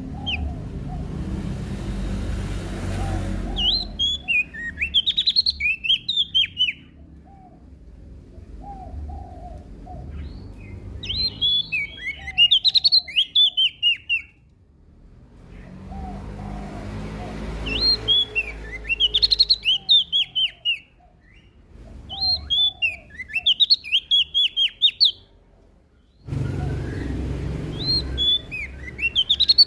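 A prenjak daun (cikrak daun, a leaf warbler) singing repeated phrases of quick, high chirping notes, about five song bouts a few seconds apart. A low rumble comes and goes underneath.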